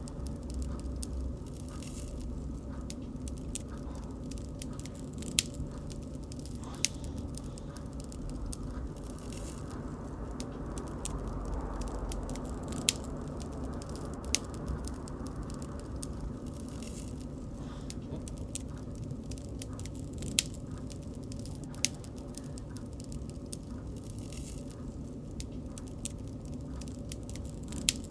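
Wood fire burning with a steady low rush and constant small crackles, broken by sharper pops every few seconds.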